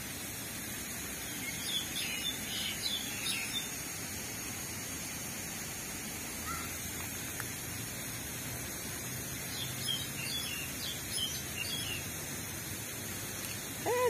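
Small birds chirping in two short clusters of high calls, about two seconds in and again around ten to twelve seconds in, over a steady background hiss.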